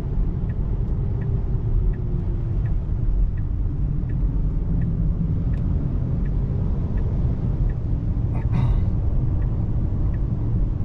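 Low rumble of tyres on a wet road heard inside the car's cabin, with the turn-signal indicator ticking evenly, about one tick every 0.7 seconds. A brief swish comes about eight and a half seconds in.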